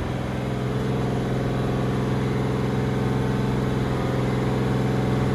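Doug Rippie Motorsports LT1 383 stroker small-block Chevy V8 running steadily on an engine dyno, an even, unchanging drone with no revving.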